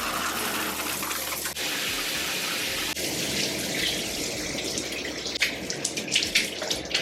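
Water running steadily from a tap, with a few short sharp sounds near the end.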